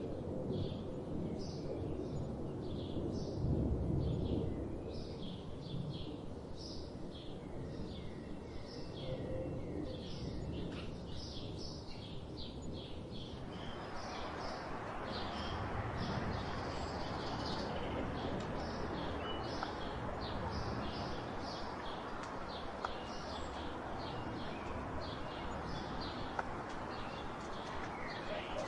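A chorus of small birds chirping in quick, repeated short notes over a low, steady rumble of background noise. About halfway through, a steady hiss comes in abruptly and stays.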